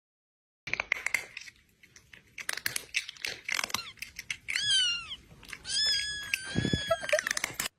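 Domestic cat meowing: scratchy clicking noises first, then a short meow falling in pitch, then a long, high, steady meow held for about two seconds.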